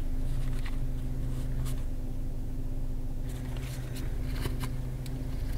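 Car engine idling with a steady low hum, heard from inside the cabin. Light rustles and clicks of a leather wallet being opened and money handled, mostly in the second half.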